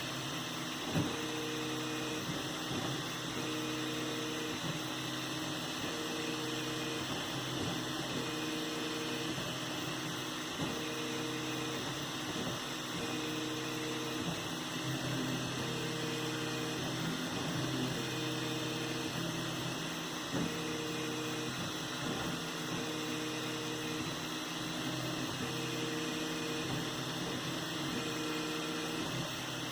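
3D printer running a print: its stepper motors give short pitched tones that start and stop about once a second as the print head moves back and forth, over a steady hum.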